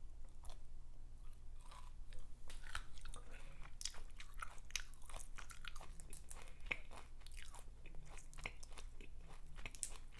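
Close-miked eating of a seafood boil: wet chewing and biting with many small smacks and clicks, over a steady low hum.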